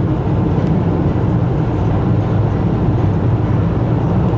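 Steady rumble of a car driving through a road tunnel, heard from inside the cabin: engine and tyre noise with a low, even drone.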